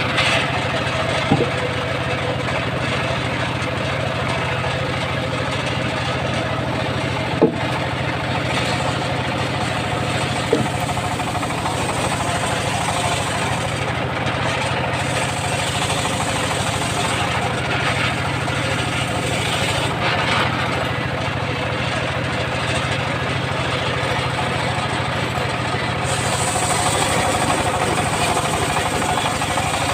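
Engine of a homemade circular saw rig running steadily, with a few sharp knocks about one, seven and ten seconds in. A higher hiss comes in near the end.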